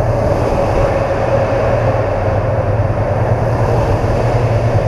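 BMW R1200 GS Adventure under way: steady wind and road noise over its boxer-twin engine, with a held engine tone that sinks slightly.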